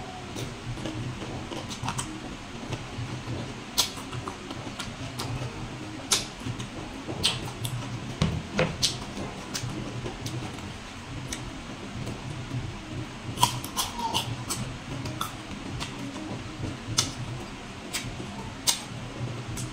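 Close-up chewing of crunchy raw green fruit, with irregular sharp crunches and small wet mouth sounds over a steady low hum.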